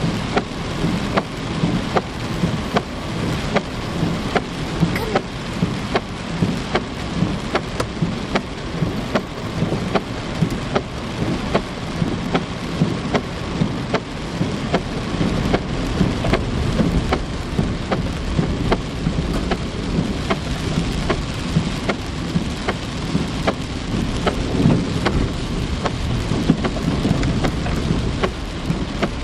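Heavy rain pouring down, with a dense patter of sharp drop impacts over a steady rush and a low rumble underneath.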